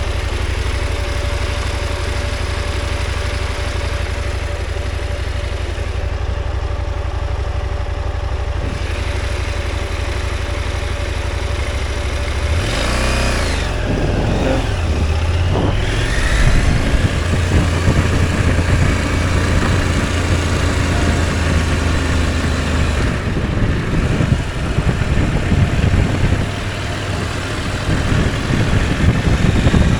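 Motorcycle engine running while riding, with the pitch rising and falling through revs about halfway through, and rough rumble on the microphone in the second half.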